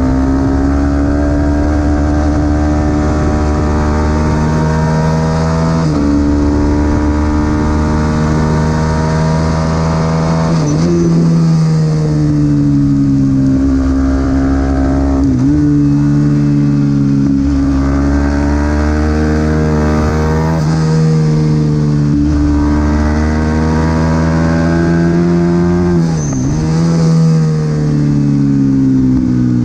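Supersport 300 racing motorcycle engine running hard at high revs, its pitch climbing and then dropping sharply at gear changes every few seconds, with brief dips as the revs fall and pick up again.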